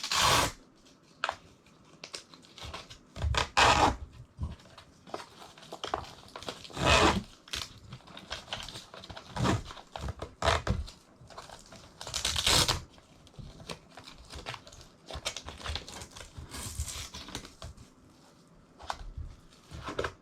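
Hands working on the parts of a fish-finder shuttle: irregular clicks, knocks and rustling, with a few louder knocks spread through.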